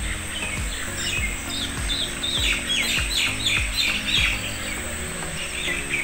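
Small birds chirping in quick repeated calls, busiest in the middle, over background music with a steady low beat about twice a second.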